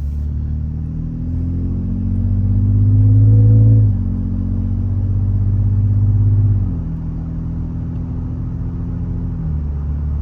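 Toyota Sequoia TRD Pro with a slip-on aftermarket exhaust, heard from inside the closed cabin while accelerating. The engine note climbs, loudest just before the first drop, and falls with upshifts about four and about seven seconds in. It drops once more near the end and then runs steady at cruise.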